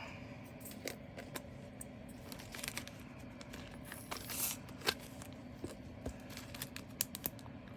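Small plastic bags crinkling and scattered light clicks of plastic as leftover diamond painting resin drills are handled and bagged, with a brief rustle about four seconds in.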